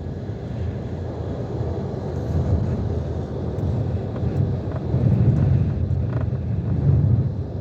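Storm-force wind making a low, rumbling buffet on the microphone, with gusts swelling louder about two thirds of the way in and again near the end.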